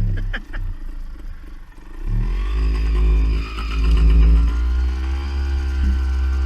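Beta Synt trials motorcycle engine dying as it runs out of fuel, its pitch dropping about half a second in, then running again from about two seconds in with its revs rising and falling.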